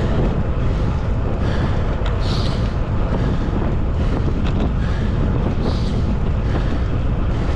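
Wind buffeting the microphone of a camera on a moving bicycle: a steady, heavy low rumble.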